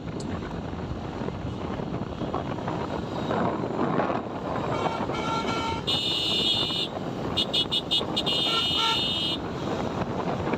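Road vehicle horn honking: a long blast, then several quick short toots and another longer blast, over the steady wind and road noise of a motorcycle ride.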